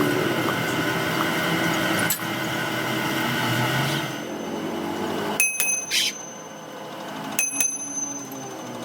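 A steady running noise of workshop machinery, which stops about four seconds in. Then come two sharp metal strikes about two seconds apart, each ringing briefly like struck steel.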